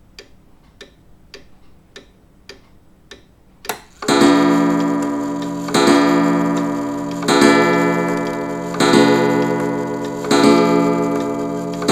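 Grandfather clock ticking quietly, about every 0.6 seconds. About four seconds in it begins striking: loud, ringing, evenly spaced strikes about every one and a half seconds, each dying away before the next.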